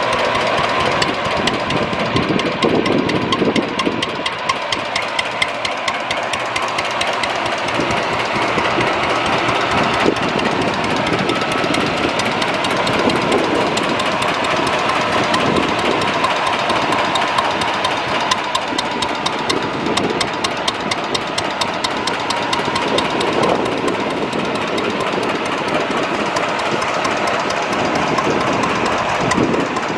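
Natural gas engine on a coal bed methane well, chuffing away steadily as it drives the pump that pumps water off the well.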